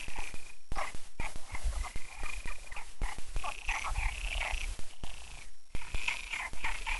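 Chorus of many frogs calling at a stream: dense, overlapping croaks with no break except a brief dip about five and a half seconds in.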